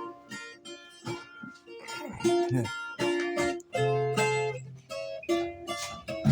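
Viola caipira, the Brazilian ten-string folk guitar, plucked in a melodic instrumental introduction: a run of separate picked notes, some held and left to ring.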